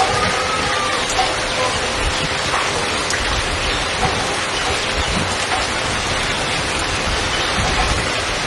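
Heavy waterfall: water pouring and splashing over rocks as a steady, dense rush.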